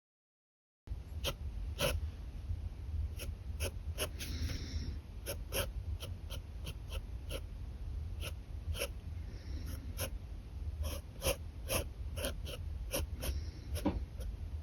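Pen nib scratching on paper in many short, quick strokes at an irregular pace, with a few longer, hissier strokes, over a steady low hum. It starts after about a second of dead silence.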